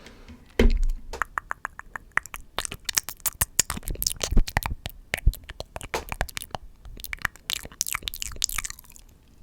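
ASMR mouth sounds: a fast, uneven run of tongue and lip clicks and pops, starting with a heavier thump about half a second in and stopping just before the end.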